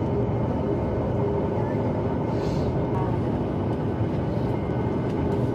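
Steady cabin rumble of a Boeing 737 MAX 8 on the ground, its CFM LEAP-1B engines running at idle.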